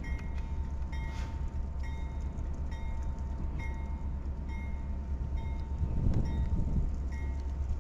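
Freight train rolling past with a steady low rumble, swelling about six seconds in, and a short high ping repeating about once a second over it.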